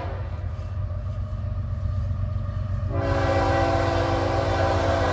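Diesel locomotive (BNSF ES44C4) approaching with a steady low engine rumble. About three seconds in, its air horn comes on, a chord of several steady tones, and is held.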